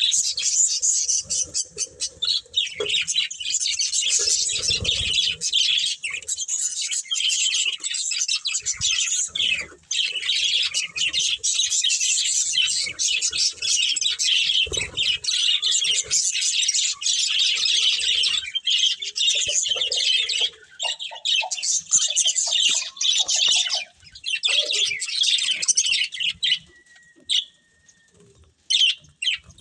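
Budgerigars chirping and chattering continuously in a dense, high warble that thins out near the end.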